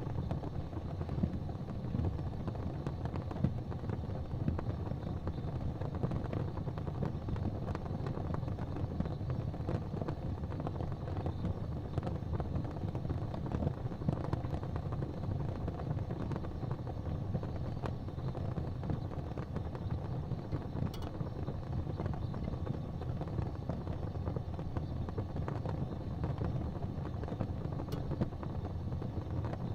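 Fire burning in a fireplace: a steady low rumble with fine crackling, and a couple of sharper pops about two-thirds of the way through and near the end.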